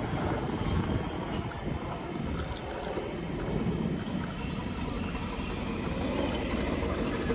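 Miniature passenger railway train running, a steady low rumble.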